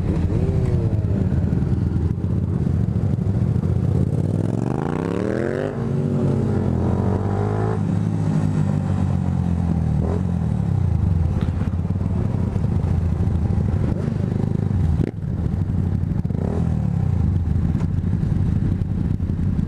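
Motorcycle engine accelerating hard, its pitch rising steeply, dropping at a gear change about six seconds in and climbing again, then holding a steady drone at cruising speed with wind rumble on the helmet camera.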